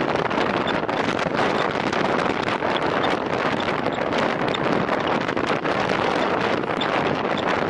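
Steady rush of wind over the microphone of a camera riding along on a racing bicycle at time-trial speed.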